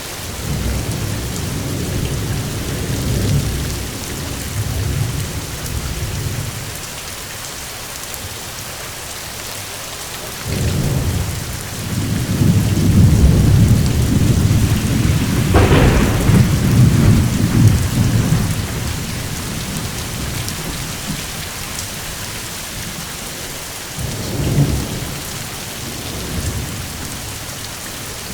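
Steady rain with rolling thunder: low rumbles swell and fade, the loudest roll building about ten seconds in with a sharp crack in the middle of it, and a shorter rumble near the end.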